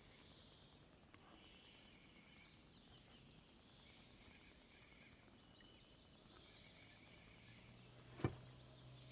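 Faint songbirds chirping over quiet open-air stillness, with a single sharp knock near the end.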